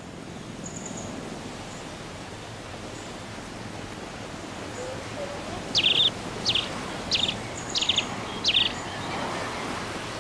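Steady outdoor hiss with a bird calling; about six seconds in the bird gives five loud calls in quick succession, roughly two every second and a half, each a sharp downward note running into a short buzzy trill. Faint high chirps near the start.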